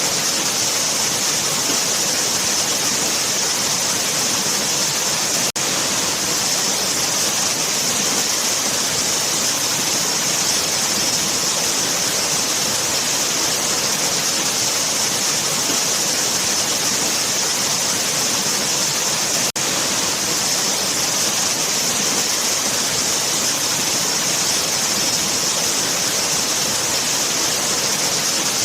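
Waterfall: a steady rush of falling water with a strong hissy top. It drops out for an instant twice, about six seconds in and about twenty seconds in.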